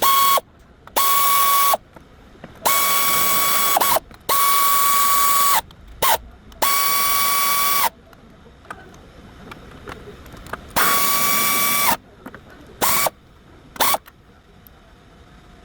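Compressed air released in about nine separate blasts, each a loud hiss carrying a steady whistle. The blasts last from a fraction of a second to about a second and a half, with a longer pause in the middle. Each whistle dips in pitch as it cuts off.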